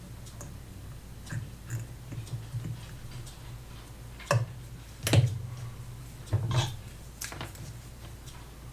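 Irregular clicks and taps of small watchmaking tools and watch parts being handled on a bench while the watch is opened up. There are about eight sharp clicks over a faint low hum, and the loudest comes a little past the middle.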